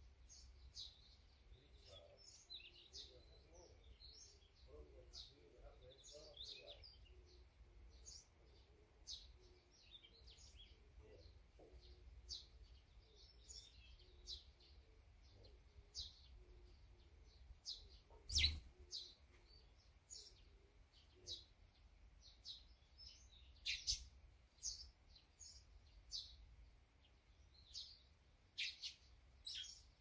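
Small birds chirping: many short, high calls, several a second, with one sharp knock about eighteen seconds in.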